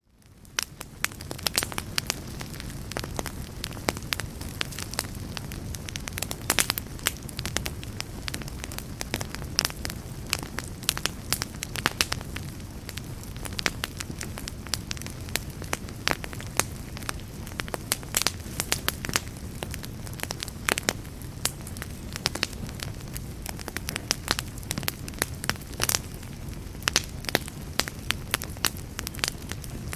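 Wood fire in a fireplace crackling, with frequent irregular sharp pops over a steady low rumble. It fades in over the first second.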